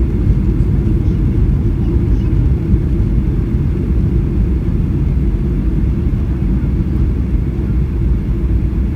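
Steady low rumble inside the cabin of a Boeing 737-800 on approach to landing: the CFM56-7B engines and the airflow over the fuselage, deep and even throughout.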